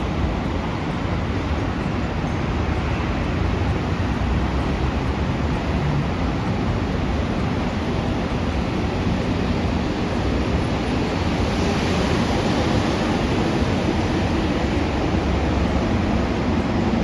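Steady rushing rumble of a train running past, with a strong deep low end and no distinct clicks or horn.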